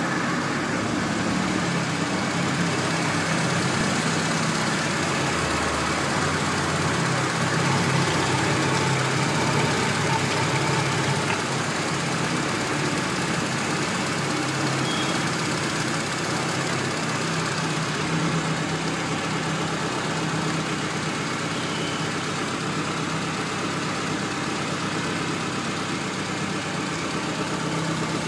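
Honda Civic's 1.4 L D14A petrol four-cylinder with fuel injection, idling steadily and heard close with the bonnet open.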